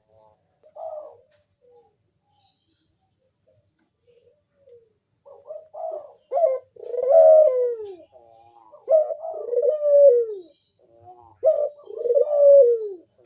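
Barbary dove (puter) cooing: one short coo about a second in, a pause, then from about five seconds a string of repeated coos, each a falling note, the longer ones sliding down in pitch.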